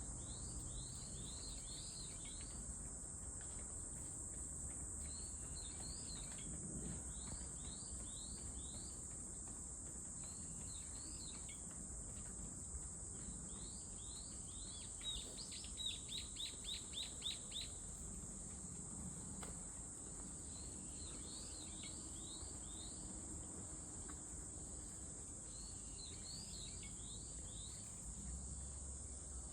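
A steady, high-pitched insect drone, with a bird singing phrases of short rising chirps over it, including a quicker run of chirps about halfway through.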